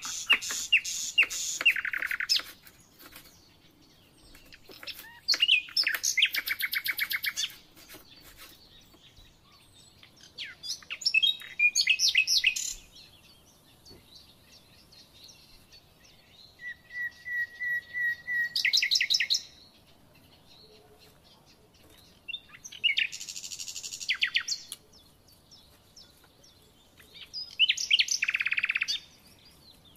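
A small songbird singing in short phrases of rapid repeated chirps and trills, six phrases a few seconds apart.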